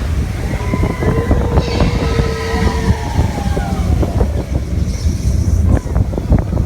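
Expedition Everest roller coaster train running along its track: a steady low rumble with rapid clattering, and squealing wheel tones that bend up and down in pitch.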